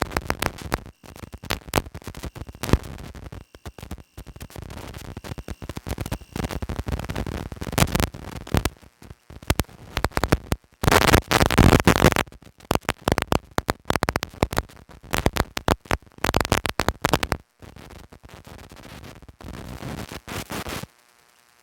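Loud, uneven rushing noise on the microphone, surging and dropping out abruptly many times, then cutting off suddenly near the end.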